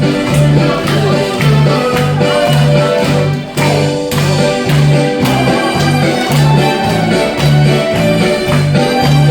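Harmonica playing a melody over a backing track with a steady bass beat.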